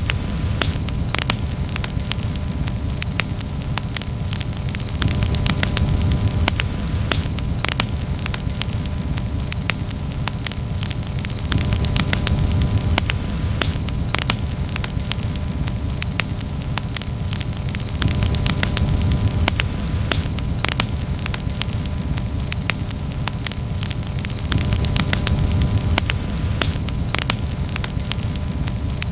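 Wood campfire crackling, with many irregular sharp pops and snaps over a low, steady rushing rumble that swells and eases every few seconds.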